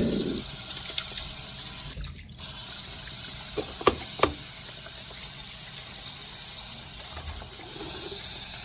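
Steady rushing of water, cut off briefly about two seconds in, with a few faint clicks around four seconds in.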